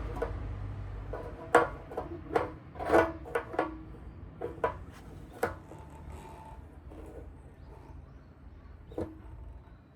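A low engine hum that weakens about a second in, then a quick run of sharp clicks and knocks, about a dozen in four seconds, with a single knock near the end.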